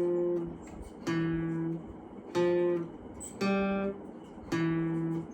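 Background music: acoustic guitar strumming chords, about one strum a second, each chord ringing briefly before the next.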